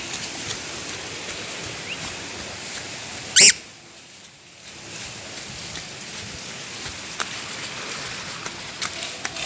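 A lovebird gives one short, shrill, very high chirp about three and a half seconds in, with a few fainter chirps elsewhere, over a steady background hiss.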